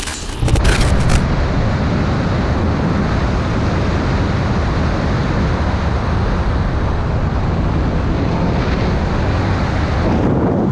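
Steady wind and engine noise from a moving motorcycle, heard from an onboard camera, after a few sharp clicks in the first second.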